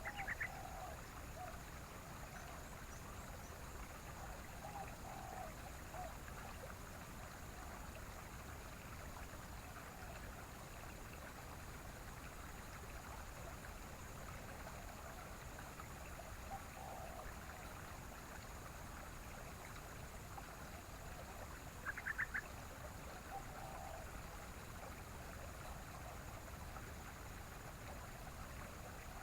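Yellow-vented bulbul (trucukan) giving short, bubbly chattering phrases, once at the start and again about 22 seconds in, with fainter lower notes in between, over a steady rushing background like a stream.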